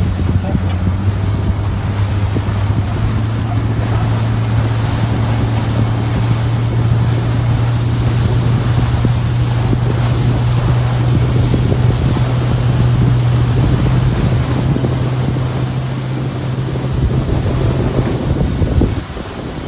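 Fishing boat's engine running at a steady speed, with wind buffeting the microphone and water rushing past. Near the end the engine note drops away, leaving wind and wave noise.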